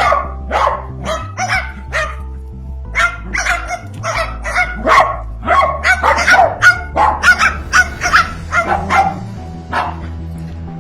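Rapid, repeated bark-like animal calls, about two or three a second, loud and shrill, over a steady background music track.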